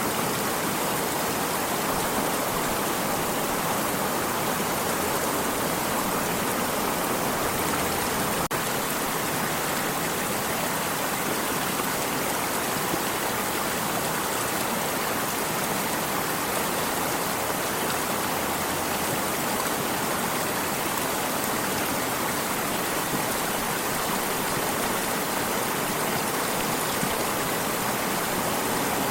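Water stream running in a steady, unbroken rush.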